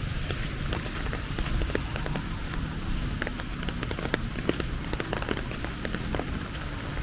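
Steady rain falling, with many scattered individual drops and drips landing close by.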